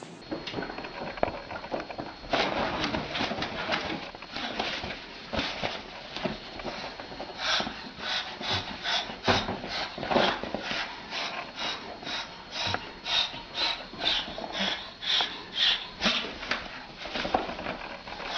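An animal making short sounds over and over, about two a second, from about seven seconds in, after a few seconds of denser, noisier sound.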